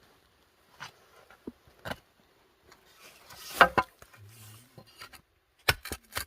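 Digging in soil to unearth potatoes: a rustling scrape through the earth about three seconds in, and a quick run of sharp knocks from a digging tool striking the ground near the end, with scattered light clicks between.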